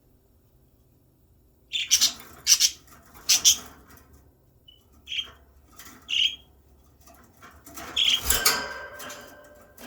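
Pet budgerigars squawking and chirping in short, high calls during a scuffle, with bursts of wing flapping. There are a cluster of sharp calls about two seconds in, two single chirps in the middle and a longer noisy flurry near the end.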